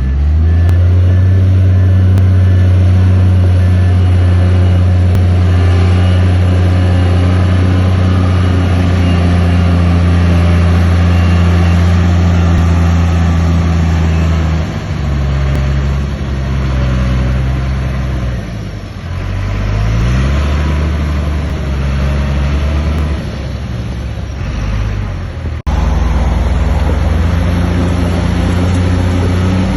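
Heavy diesel engine of earthmoving machinery running at high revs. Its pitch falls and rises again several times around the middle. It breaks off for an instant about 26 s in, then runs on steadily.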